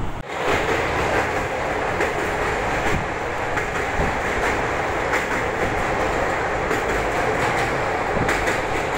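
Passenger train running along the track, heard from the carriage: a steady rushing rumble of wheels on rails with faint scattered clicks. The sound swells in just after a brief dip at the very start.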